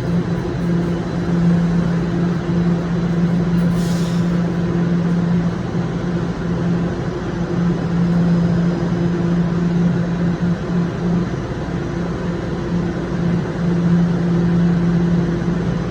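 Toronto subway train on Line 1 with a steady low electric hum, loud and unbroken, and one brief sharp hiss or click about four seconds in.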